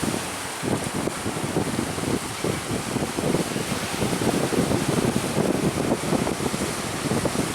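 Strong wind buffeting the microphone in a steady, gusty rumble over the rush of sea waves.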